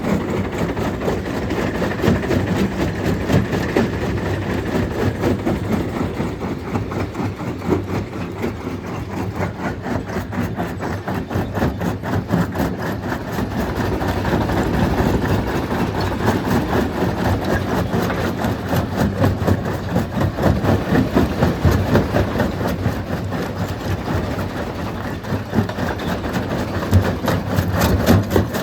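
Stone crushing machine running, with a steady engine drone under a dense, continuous clatter of rock being broken.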